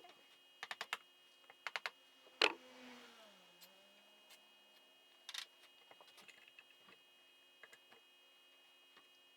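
Light clicks and clinks from tools and small parts being handled while a YZ85 two-stroke engine is taken apart. They come in short clusters of three or four, with the loudest single clack about two and a half seconds in and scattered lighter ticks after it.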